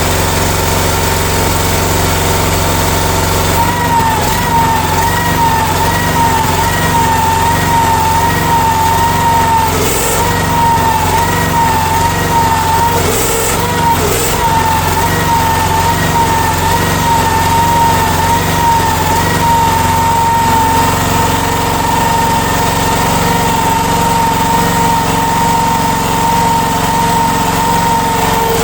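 Future FT15 mini excavator's small engine running steadily. From about four seconds in, a high whine joins it, wavering at first and then holding steady.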